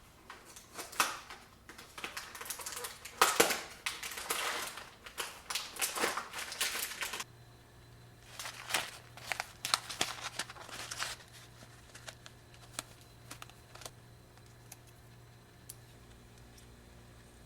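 Plastic bags and food packaging crinkling and rustling as they are handled, in irregular bursts. The rustling is heavy for the first several seconds, thins out after a sudden change in the background where a faint steady hum comes in, and gives way to scattered light clicks.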